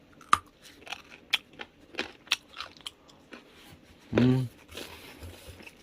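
Crunchy chewing of a raw slice of fleeceflower root (하수오): a run of sharp, irregular crunches, with a brief sound of the voice about four seconds in.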